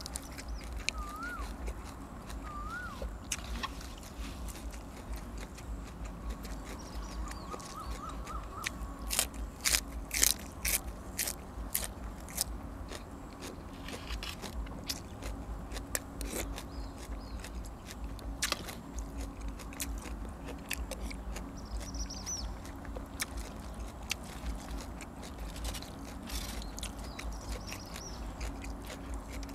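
A person chewing and eating close to the microphone, a meal of rice noodles in coconut-milk curry with fresh vegetables, with a run of sharp crisp clicks about nine to twelve seconds in and scattered ones after.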